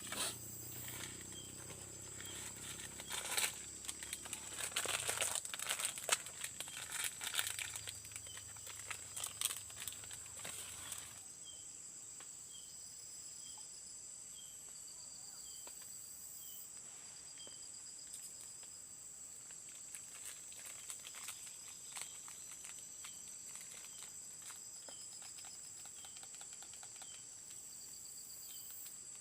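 Dry leaves and twigs rustling and crackling as they are handled for the first eleven seconds or so, over a steady high-pitched drone of forest insects. After that the insect drone goes on alone, with a short high chirp repeating about once a second.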